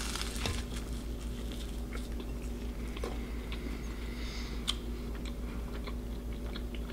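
A person biting into a flaky custard-filled pastry and chewing it, with scattered small crackles of the crust. A faint steady hum runs underneath.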